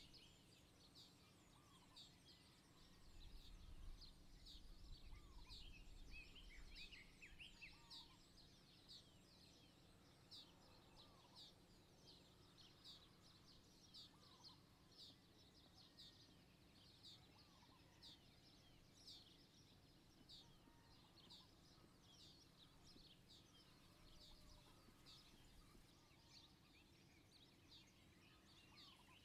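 Faint outdoor ambience of small birds chirping: short high chirps repeating about once a second, with a few lower calls mixed in. A low rumble swells briefly about three to seven seconds in.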